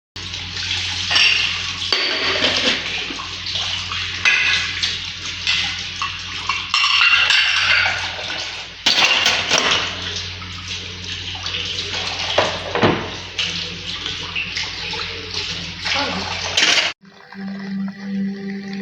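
Water running from a tap with dishes and cutlery clattering, as when washing up at a sink, with a steady low hum under it. It cuts off sharply near the end.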